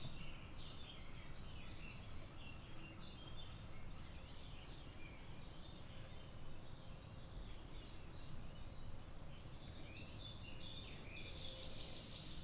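Several birds singing and calling at once in a forest morning chorus, short chirps and trills overlapping, busiest at the start and again near the end, over a steady low rumble.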